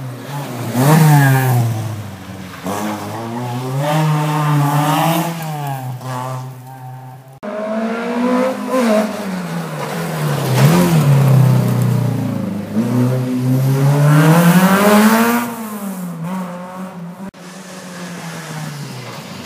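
Rally car engines at full throttle, the pitch climbing and dropping sharply with each gear change. The sound comes in short clips joined by abrupt cuts, about seven and seventeen seconds in.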